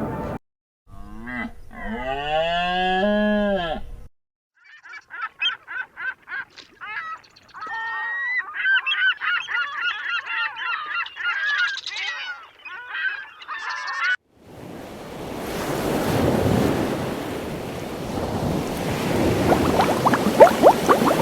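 Geese honking: first a drawn-out call that bends up and down in pitch, then a long run of rapid, overlapping honks. About fourteen seconds in it cuts abruptly to a steady rushing noise with crackling.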